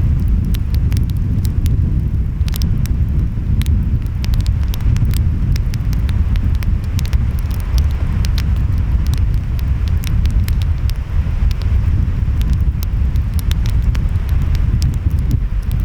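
Wood fire crackling with frequent sharp, irregular pops over a steady low rumble of surf and wind.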